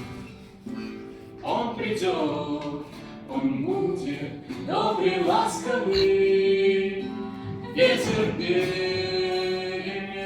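Music: singing over instrumental backing, the voice gliding between notes and holding long notes without clear words, near the close of the song.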